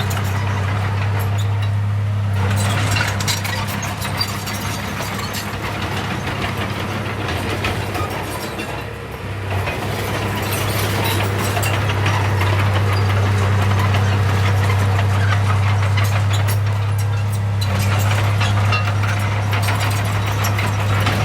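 Heavy earthmoving machinery's diesel engine running steadily, with a constant low hum and a continuous mechanical clatter over it, easing briefly about nine seconds in.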